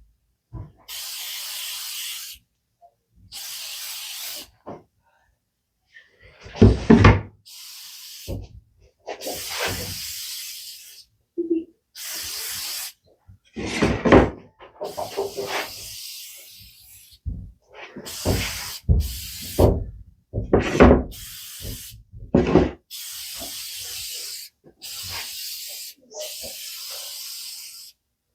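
About a dozen short bursts of aerosol spray, each one to two seconds long, with loud knocks and clatter of handled pieces between them.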